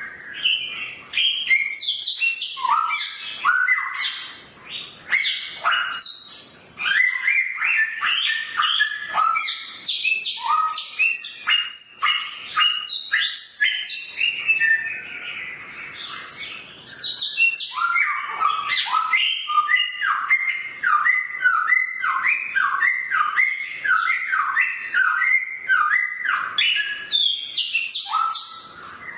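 Samyong songbird singing a fast, continuous run of short, sharp sweeping notes, with a brief lull about halfway through.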